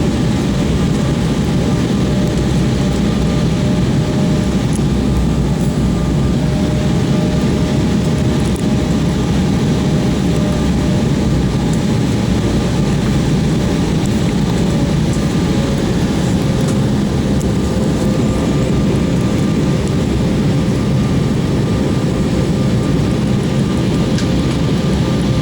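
Airliner engines running steadily, heard from inside the passenger cabin: a constant rumble with a thin whine whose pitch sags slightly about two-thirds of the way through.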